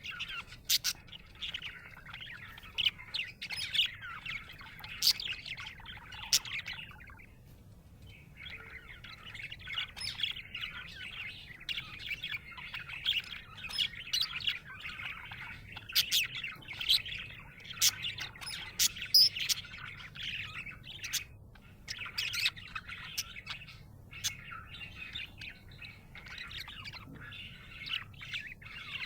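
Budgerigar chirping and warbling continuously, a busy stream of chatter with sharp clicks, pausing briefly about seven seconds in.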